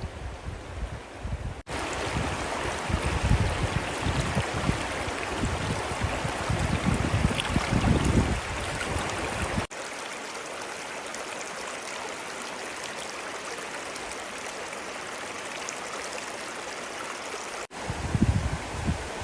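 Flowing river water, a steady rushing hiss. It is cut abruptly into separate takes about two seconds in, around ten seconds in and near the end; the first and last takes carry extra low rumbling.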